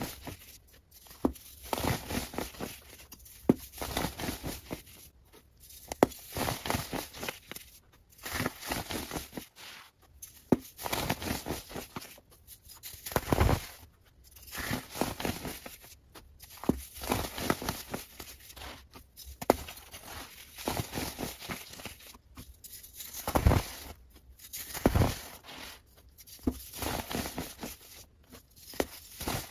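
Repeated crackly tearing and crunching sounds of material being torn or crushed, sped up: bursts about every two seconds, each full of sharp crackles, with a few louder cracks.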